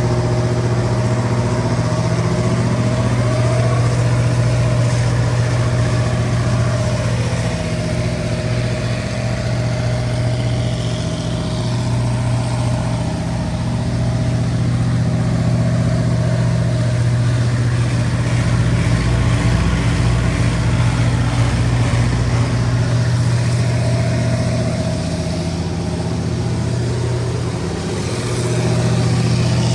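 Isuzu BV-4LE1 four-cylinder diesel engine of a Winpower DR20 20 kW generator set running steadily at constant governed speed, with a deep, even hum.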